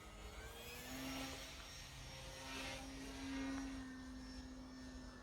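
Faint whine of an E-flite Night Timber X RC plane's electric motor and propeller in flight. It grows louder about a second in and again past three seconds.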